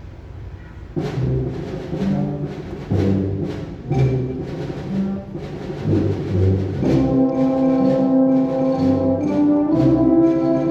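Concert wind band starts a piece about a second in: accented full-band chords about once a second, then held brass chords from about seven seconds on.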